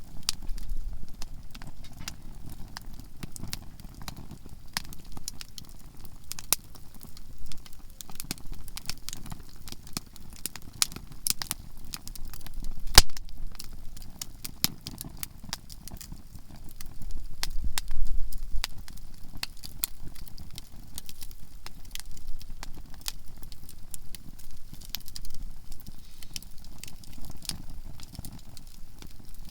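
Conifer firewood burning in a campfire, crackling with frequent sharp pops, the loudest about 13 seconds in. A low rumble swells briefly just past the middle.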